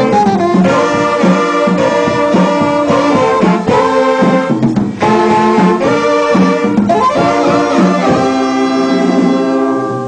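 Instrumental wind ensemble with saxophones playing a tune, several instruments holding and changing notes together.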